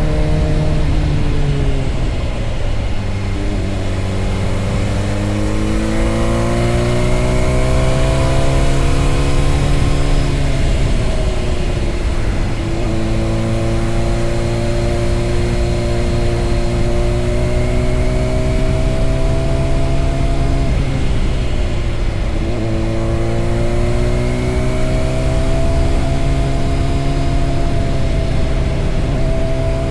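Motorcycle engine under way, its pitch climbing slowly and then dropping sharply three times, near the start, about a third of the way in and about two-thirds of the way in, as it shifts up through the gears. Wind noise runs underneath.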